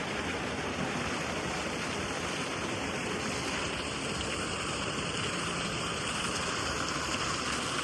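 Flowing water rushing steadily, as in the stream-fed channels of a trout farm.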